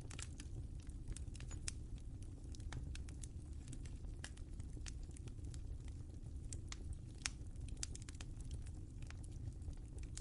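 Wood fire burning in a fireplace: a steady low rumble with irregular sharp crackles and pops, one louder pop about seven seconds in.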